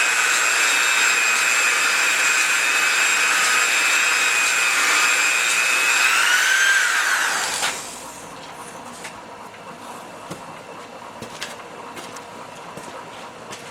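Handheld belt polisher with a Scotch-Brite belt polishing the journals of a Jeep AMC 258 crankshaft: a steady high whine. About seven seconds in it is switched off, the pitch falls as it winds down and it stops, leaving a few light clicks.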